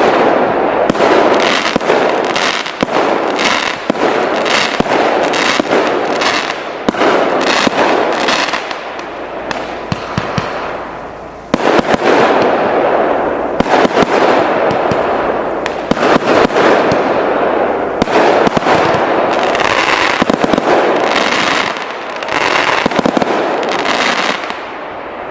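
Multi-shot firework battery (TKB997 'Деньги на ветер') firing a rapid, dense series of shots and crackling bursts. The barrage eases about ten seconds in, then restarts sharply and thins out near the end.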